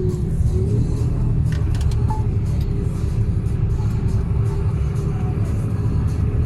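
Mercedes-Benz Actros truck running, heard from inside the cab: a steady low rumble with a steady hum above it. A few short clicks come about a second and a half in.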